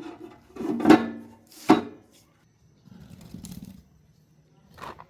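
Tools and metal parts knocking and clanking as they are handled, with two loud clanks about a second apart and a softer rattle and a clink later.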